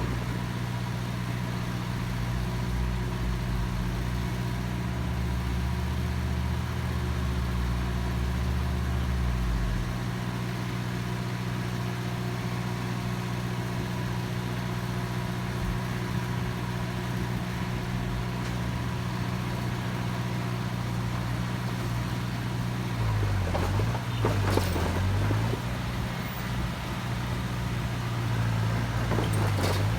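Heavy construction machine's diesel engine running steadily, with a deeper rumble underneath for the first ten seconds. Its pitch dips and recovers a few times near the end, as the engine takes load.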